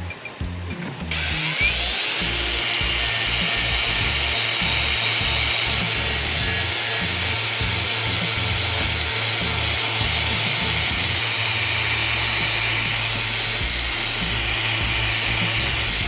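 A power tool runs steadily for about fifteen seconds, starting about a second in and cutting off suddenly near the end, with a high, hissing whine. Background music with a steady beat plays throughout.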